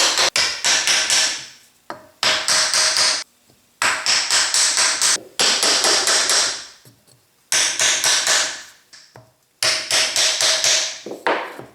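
Hammer tapping on a planer feed roll's bearing housing to drive it along the shaft. It comes in six quick runs of metallic strikes, each run followed by ringing from the roll.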